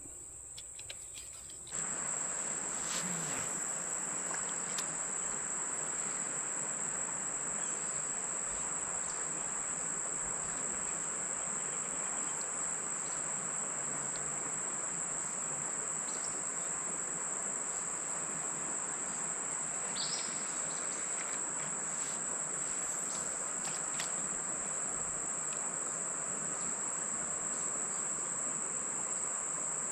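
Outdoor insect chorus: a steady, high-pitched drone that comes in about two seconds in, over an even hiss, with a few faint clicks.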